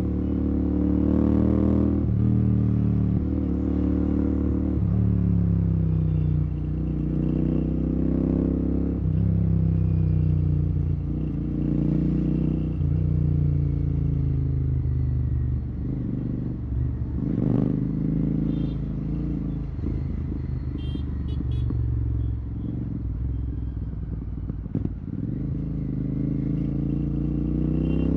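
Royal Enfield Continental GT 650's parallel-twin engine running through a Red Rooster aftermarket exhaust with the dB killer removed, ridden in traffic. The pitch climbs and drops again and again as the bike accelerates, shifts and rolls off. It sits lower and quieter for several seconds past the middle, then climbs again near the end.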